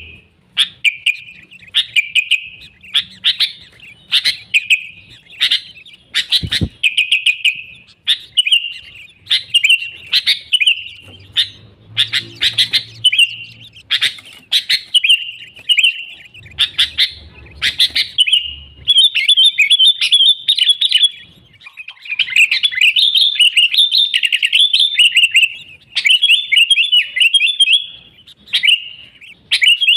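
Sooty-headed bulbul singing in short, bubbly warbled phrases about once a second, breaking into longer unbroken runs of chattering song past the middle.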